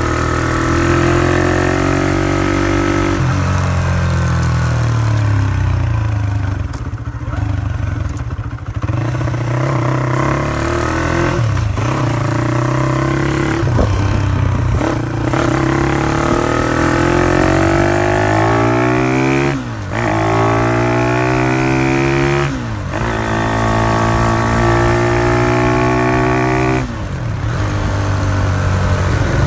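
Honda CY50/80 four-stroke single-cylinder engine running through an aftermarket exhaust, its revs rising and falling over and over with several sudden drops in pitch.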